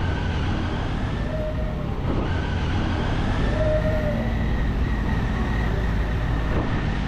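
Motorcycle riding at freeway speed: the Triumph Tiger 800's three-cylinder engine running steadily under dense wind and road noise, with a faint high whine.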